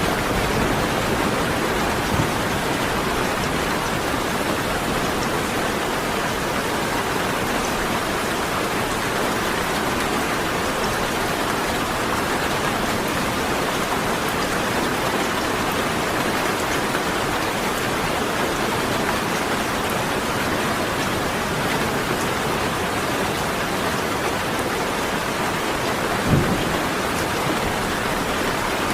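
Steady, heavy rain falling without a break. A short, low thud comes near the end.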